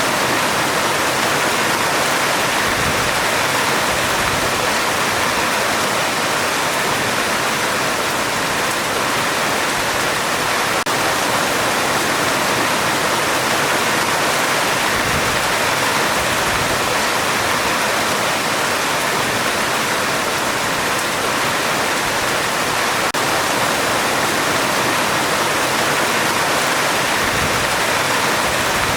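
Heavy rain falling on a metal roof: a dense, even hiss that holds steady throughout.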